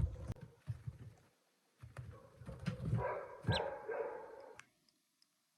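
A call duck duckling peeping, with a short high falling peep about three and a half seconds in, among low knocks in the first second or so.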